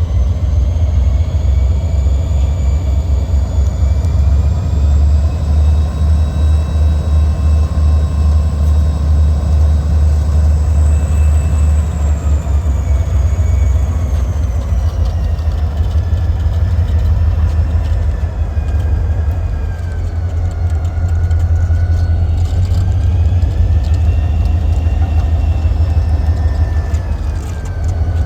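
EMD SD40-2 diesel locomotives running with a loud, steady low rumble, and several faint whines drifting slowly up and down in pitch above it.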